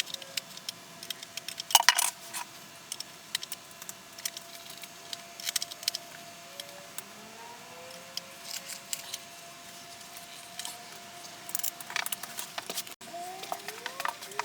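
Scattered sharp plastic clicks and taps as a smoke and carbon monoxide detector is handled and fitted onto its wall-mounted base.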